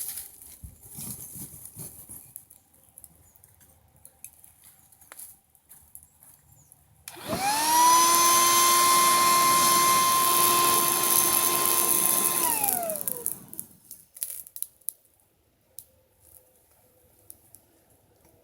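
Electric air pump blowing air into a campfire forge: it switches on about seven seconds in, spins up to a steady whine, runs for about five seconds, then is switched off and winds down. Faint scattered clicks come before and after it.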